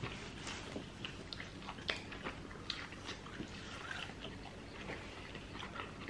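Eating sounds: chewing and wet mouth smacks, irregular short clicks with a few louder ones near the start and about two seconds in.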